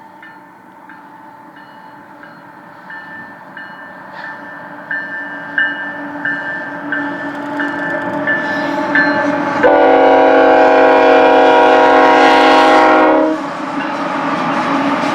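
Diesel freight locomotive approaching, its rumble growing steadily louder, while a chime rings under twice a second. About ten seconds in, the locomotive's multi-chime air horn sounds one long blast of some three and a half seconds; the train noise stays loud after it.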